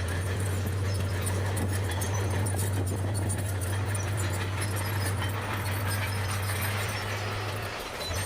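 Bulldozer's diesel engine running steadily with a deep drone, with light rattling and clicks over it; the drone dips briefly near the end.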